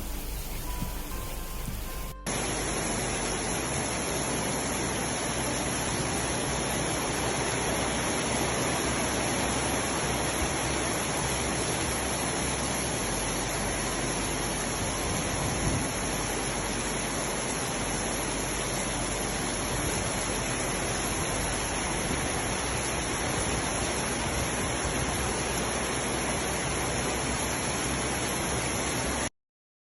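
Heavy rain falling: a steady, even hiss that cuts off suddenly near the end. Faint music tones are heard for the first two seconds.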